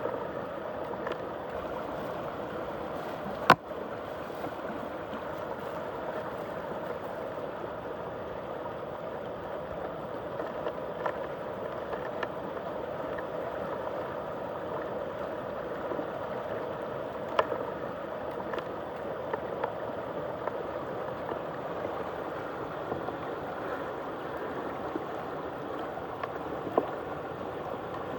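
Muddy water swirling and gurgling steadily as it drains in a whirlpool through a hole, with occasional sharp clicks, the loudest about three and a half seconds in.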